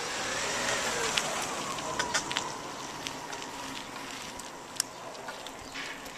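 Bicycle ride noise: wind and road rush with scattered rattling clicks from the bike. A passing motor vehicle's engine tone rises and then falls in the first two seconds, then fades.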